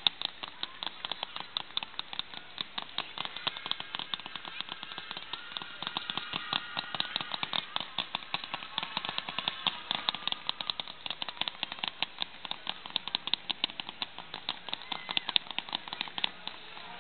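Fireworks crackling: a dense, rapid, continuous string of small sharp cracks from crackle effects in the display.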